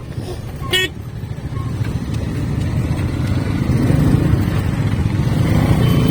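Motorcycle engine and road noise while riding, growing louder over the first few seconds, with a short horn beep just under a second in.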